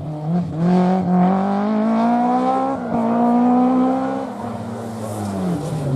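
Historic rally car engine at full throttle, its pitch climbing through a few quick gear changes, then lifting off and dropping to a lower, steadier note about four to five seconds in.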